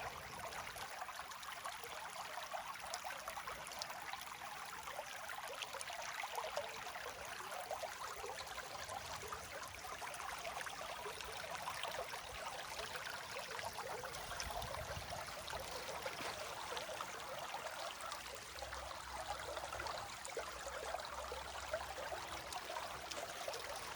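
Spring-fed creek flowing and trickling: a steady rush of running water.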